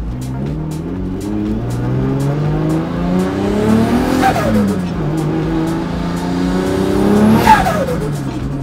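Turbocharged Nissan RB20 straight-six in a Ford AU Falcon, heard from inside the cabin, accelerating hard. The revs climb for about four seconds, drop sharply, then climb again to the loudest point near the end before falling away.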